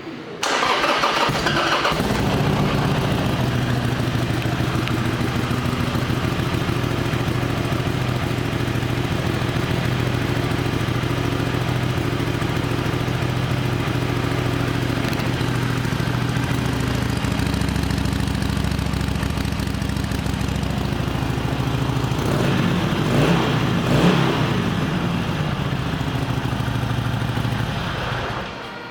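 2016 Harley-Davidson Sportster Iron 883's air-cooled V-twin started on the electric starter, then idling steadily with its uneven V-twin beat. A few seconds before the end it is revved twice, then shut off.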